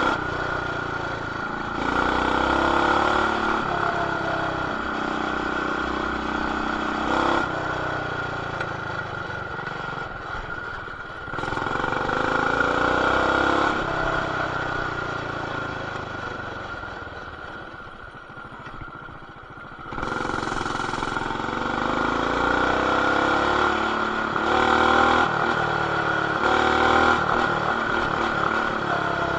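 Small single-cylinder engine of a BT200X mini bike with a stage 1 intake, header and RLV exhaust, being ridden: the pitch rises each time the throttle opens, several times over, and falls away as it eases off, sinking lowest a little past the middle before it pulls up again. It is heard through a camera in a plastic protective case, which muffles it.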